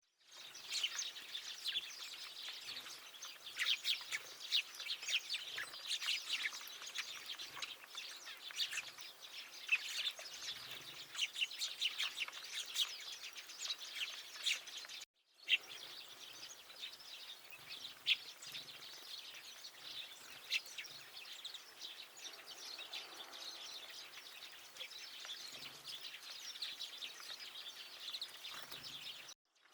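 Many small songbirds chirping and calling at once, short high chirps overlapping densely, with a brief cut about halfway after which the chirping is sparser.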